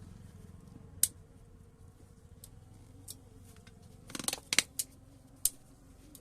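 Sharp, separate clicks and taps of small hard parts or hand tools being handled on a workbench during a table fan bearing repair. Near the end they gather into a quick cluster with a brief scraping rattle.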